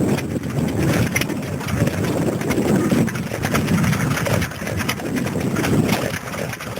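Vintage stationary engine running steadily at idle.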